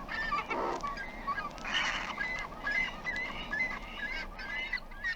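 Double-crested cormorants calling together: many short, overlapping calls, with harsh, noisy bursts about a second in and about two seconds in.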